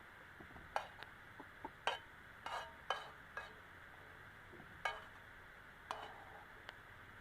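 A metal spatula clinking and scraping against a pan while stir-frying, about eight sharp ringing strikes at irregular intervals over a steady hiss.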